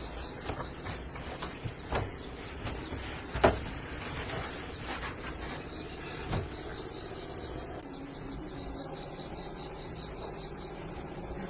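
Insects chirring in a steady high-pitched drone, with a few short knocks or clicks in the first half, the loudest about three and a half seconds in.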